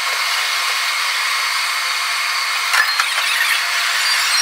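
Running noise of a Tobu electric commuter train (set 51005) from the driver's cab, sped up six-fold so it comes out as a steady high whirring hiss with faint whining tones, and a few clicks about three seconds in.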